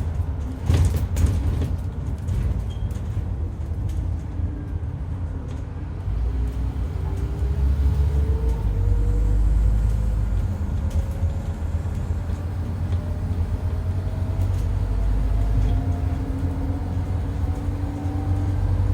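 Scania N230UD double-decker bus with its 9.3-litre Scania DC9 diesel running under way: a deep rumble with a strange howl that climbs steadily in pitch over several seconds, and a few sharp knocks about a second in. The uploader takes the howl for a dodgy bearing or worn-out tyres.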